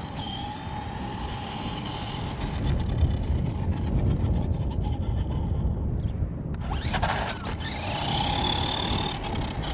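A 1/10 scale RC monster truck with a 550 brushed electric motor driving: a steady motor and gear whine over a low rumble of tyres on the ground. The whine rises in pitch as it accelerates about seven seconds in.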